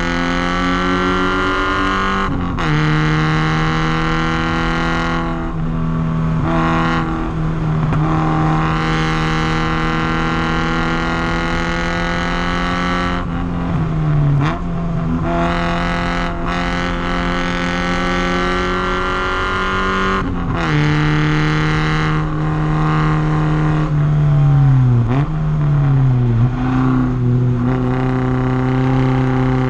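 Porsche 944's four-cylinder engine pulling hard at speed on a race track. Its pitch climbs slowly under acceleration and drops off briefly at each gear change. Near the end the pitch falls sharply with a couple of quick rises and dips as the car brakes and downshifts.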